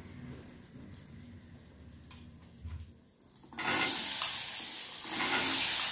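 Boiled black chickpeas tipped into hot oil in an iron kadai, setting off a sudden loud sizzle about three and a half seconds in that keeps going. Before that the pan is quiet, with a few faint clicks.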